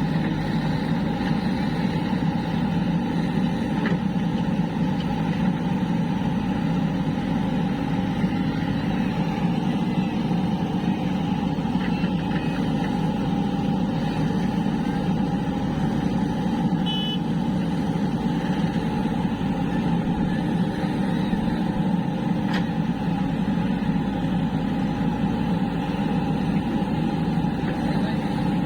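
Heavy diesel engine of earth-moving machinery running steadily, a continuous low drone.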